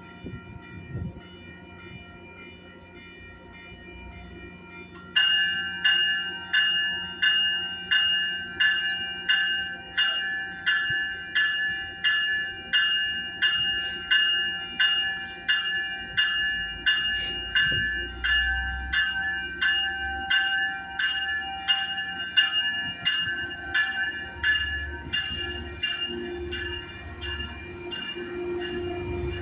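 A railroad bell starts abruptly about five seconds in and rings in a steady rhythm, about one and a third strokes a second, each stroke fading before the next, over low train rumble.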